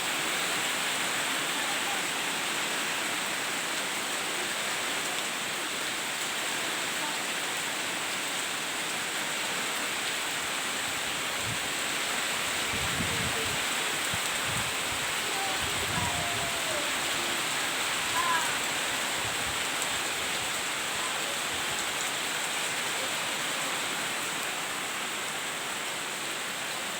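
Steady rain falling, a continuous even hiss, with a few faint short chirps and some low thumps about halfway through.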